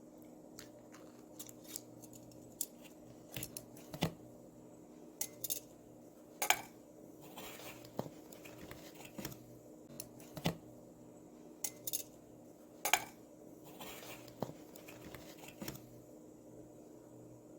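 Small hard objects being handled: irregular light clicks and clinks, with a couple of brief brushing sounds, over a steady low hum.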